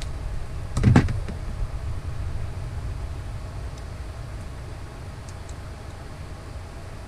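A sharp knock, doubled, about a second in over a steady low rumble, with a few faint clicks later.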